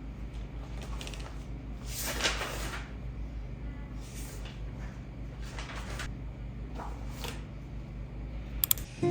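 Objects being handled around the home: several soft swishing rustles, the strongest about two seconds in, then two sharp clicks near the end, over a steady low hum.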